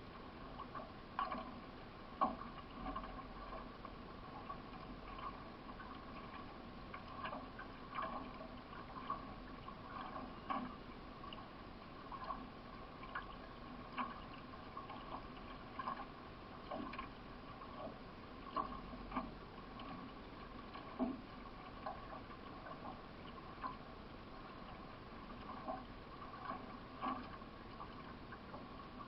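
Paddle strokes of a C1 racing canoe, splashing in a steady rhythm of about one stroke a second, over a continuous sound of moving water.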